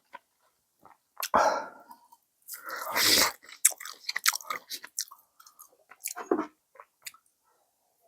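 A person eating instant ramen close to the microphone: chewing and mouth smacks, with two longer noisy stretches about a second and a half and three seconds in, the second the louder.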